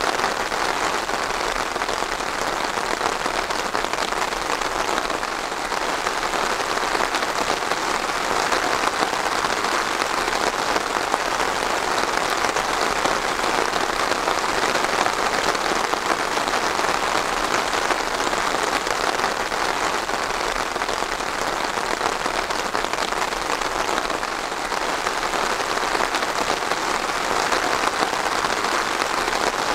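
Steady rain falling, an even dense patter of drops on a surface.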